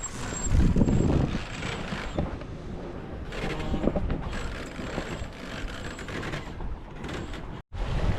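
Mechanical creaking and clicking aboard a sailing yacht over a steady rush of wind, with a loud low gust about a second in; the sound cuts out briefly near the end.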